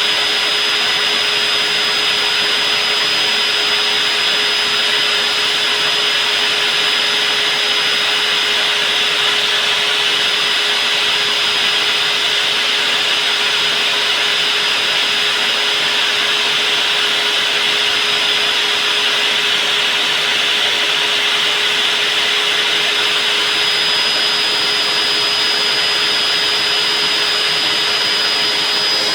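Electric diamond core drill running steadily, its motor giving a continuous whine, as it bores a four-inch hole through reinforced concrete.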